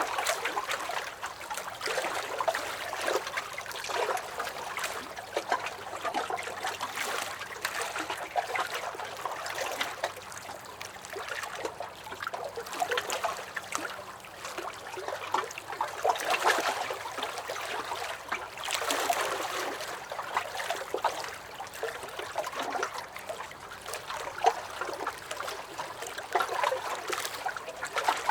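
Small lake waves lapping and splashing against a dock, a continuous irregular slosh and gurgle that swells every few seconds.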